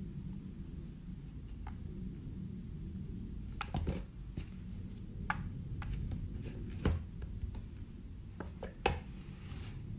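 A few sharp, very high-pitched squeaks in quick pairs, with several soft knocks in between.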